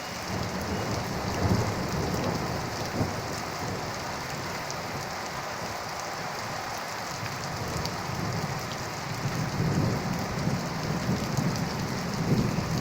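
Steady rain falling, a continuous hiss, with swells of low rumble in the first few seconds and again near the end.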